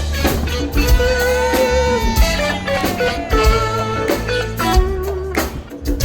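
Live band playing an instrumental passage before the vocals: a melodic lead line with sliding notes over a steady low bass beat.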